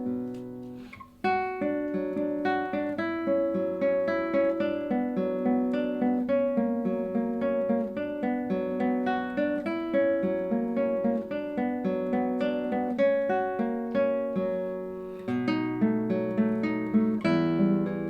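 Solo classical guitar playing a flowing run of picked, arpeggiated notes, with a short break about a second in before the music resumes.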